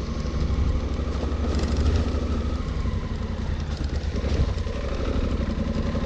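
Honda Africa Twin's parallel-twin engine running steadily as the motorcycle rides along, heard from on the bike with road noise over it.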